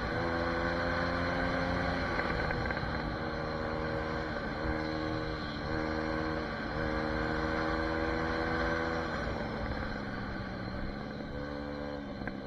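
SSR 150 pit bike's small four-stroke engine running while being ridden. Its pitch holds steady for a second or two at a time, broken by short dips as the throttle is eased or the bike is shifted, and it grows fainter near the end.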